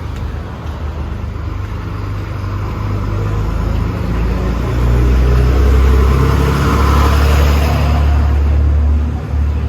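A motor vehicle passing close on a city street: a low engine rumble that builds about four seconds in, is loudest for a few seconds, then eases off near the end.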